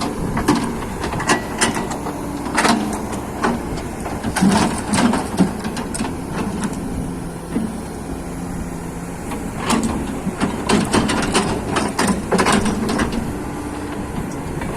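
Irregular sharp metal knocks and clanks of work on an excavator's wheel parts, heaviest in two clusters, over a steady low engine hum.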